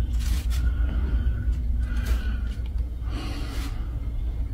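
Three breathy exhalations close to a phone's microphone over a steady low rumble.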